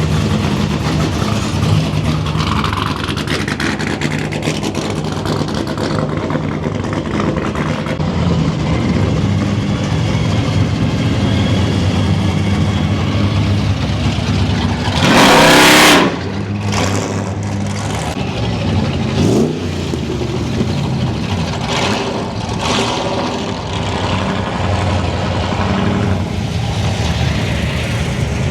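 Car engines running steadily, with one loud rev lasting about a second halfway through and a smaller one a few seconds later.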